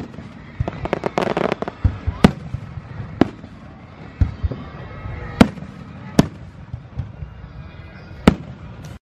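Aerial firework shells bursting overhead: about six sharp bangs a second or two apart, with a quick run of crackles about a second in.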